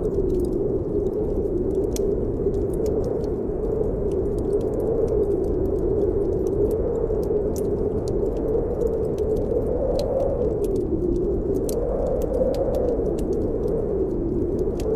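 Snowstorm wind howling steadily, its pitch slowly rising and falling, over a low rumble. Small crackles and pops from a burning wood fire are scattered through it.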